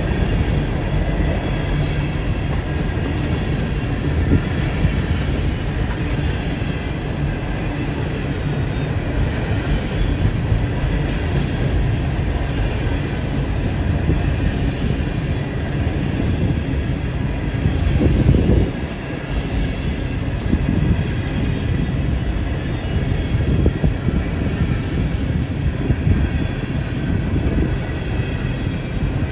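Train rolling past close by: a continuous heavy rumble of wheels on rail with faint steady high tones above it, and a brief louder surge about eighteen seconds in.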